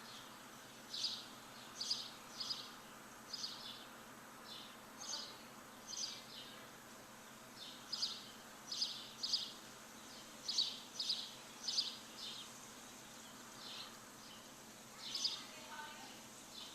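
A bird chirping over and over, short high calls coming one or two a second in irregular runs, over steady outdoor background hiss. A softer, lower warbling call comes in briefly near the end.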